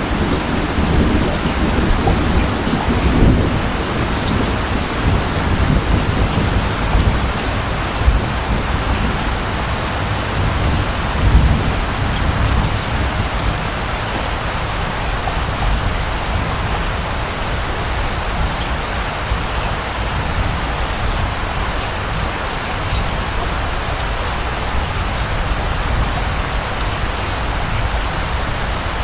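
Steady rain falling, with a low rumble of distant thunder in the first part that dies away about halfway through, leaving the rain alone.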